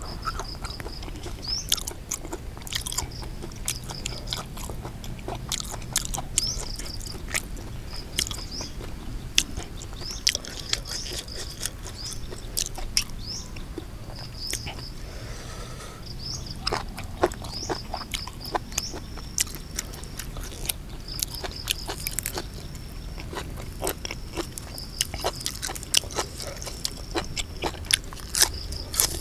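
Close-miked chewing and biting of food, with frequent crisp crunches that come more thickly in the second half. Insects chirp in short repeated high calls in the background.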